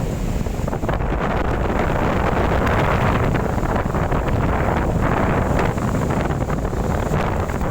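Strong wind blowing in a storm, buffeting the microphone with a heavy low rumble that swells and eases.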